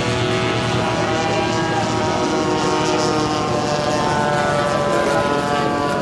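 Propeller engines of a giant-scale radio-controlled warbird model airplane in flight, a steady drone whose pitch drifts slightly.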